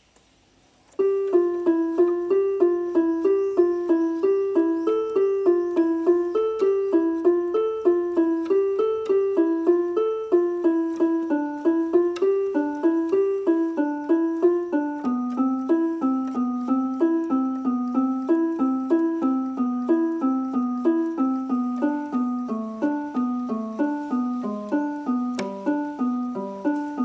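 Electronic keyboard playing a steady, repeating arpeggio in a piano-like voice, each note fading quickly. It starts about a second in, after a moment of near silence, and the pattern moves lower about halfway through.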